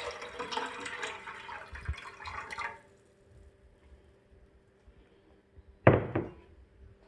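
Liquid being poured into a saucepan for pickle brine, a steady splashing pour that stops about three seconds in. A single loud knock follows near the end.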